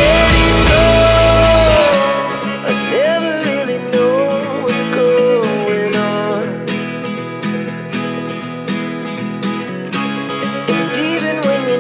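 Loud music played over a large carnival sound system, with heavy deep bass that cuts out suddenly about two seconds in, leaving lighter guitar-led music with a wavering melody line and sharp percussion strokes.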